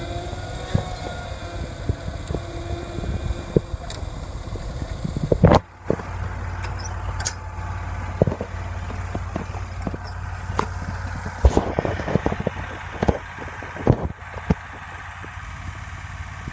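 Scag Turf Tiger zero-turn mower's engine running steadily, with scattered knocks and clicks over it and one loud knock about five and a half seconds in.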